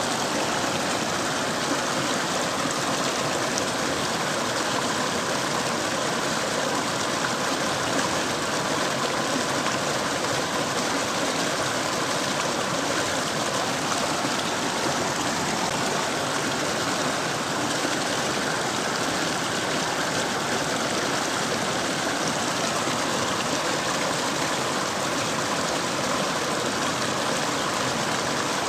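Mountain stream flowing over rocks: a steady, unbroken rush of running water.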